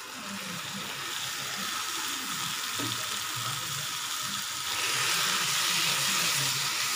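Masala sizzling in a hot pan as wet, washed raw chicken pieces are tipped in, the sizzle growing louder about five seconds in as the chicken is stirred with a spatula.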